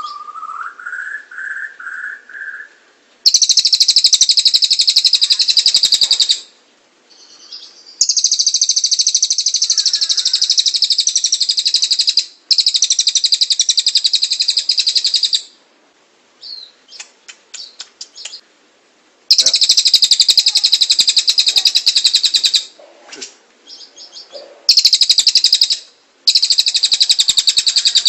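A tengek cililin bird singing: a few short, rising notes at the start, then about six long, very rapid, high trills of roughly three seconds each, separated by brief pauses with a few short chips in between.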